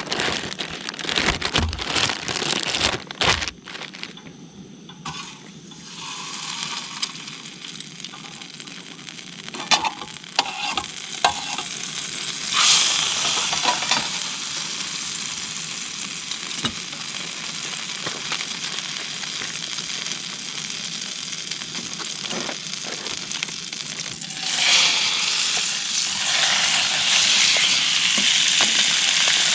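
Saltfish sizzling as it fries in a pan, with a few knocks of pan and utensil handling in the first seconds. The sizzle flares louder about halfway through and again near the end.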